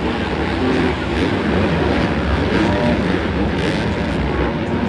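Dirt bike engines running and revving, pitch shifting up and down over a steady rumble.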